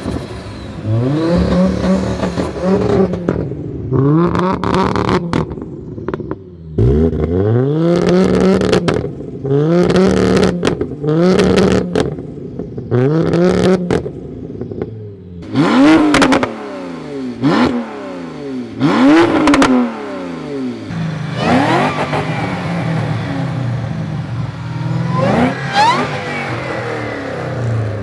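BMW M2 with a decat and performance exhaust, revved over and over in short blips that rise and fall, with sharp cracks between some of the revs.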